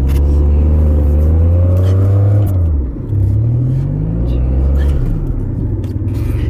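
Car engine running under load, its pitch climbing, dropping briefly about three seconds in, then climbing again before levelling off.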